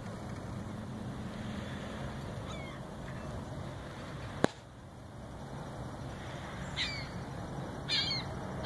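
Several short bird calls, two clearer ones near the end, over a steady low rumble, with one sharp click about halfway through.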